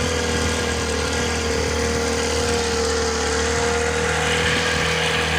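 A motorboat's engine running steadily at cruising speed, with a constant whine that wavers slightly in pitch over a low hum.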